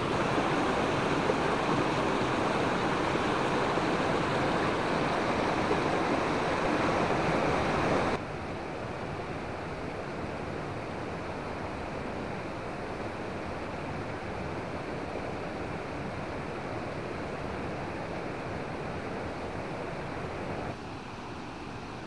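Rushing water: a steady, even roar with no pitch to it. It drops suddenly in level about eight seconds in and again near the end, as the shot changes.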